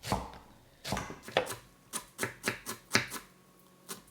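Kitchen knife chopping parsley on a cutting board: a run of quick, uneven chops with a short pause near the end.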